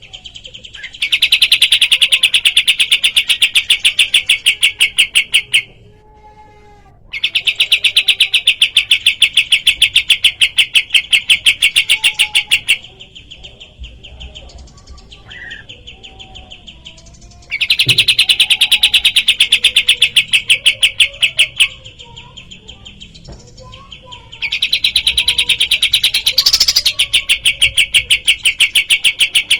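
Kapas tembak songbird calling in fast, evenly repeated trills, in four bouts of several seconds each, with fainter scattered chirps in the pauses between.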